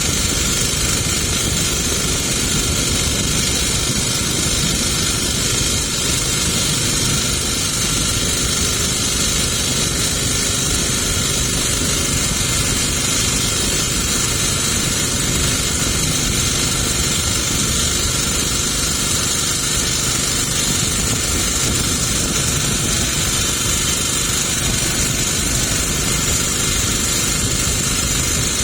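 A motorboat's engine running steadily at an even speed, mixed with a constant rushing hiss.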